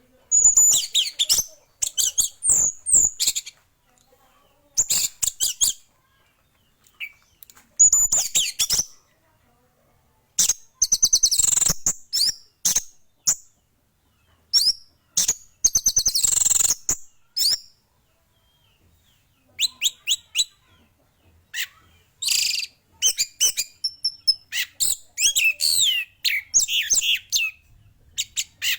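Male orange-headed thrush in full song: phrases of rapid, varied high chirps and whistles, each lasting a second or two, broken by short pauses.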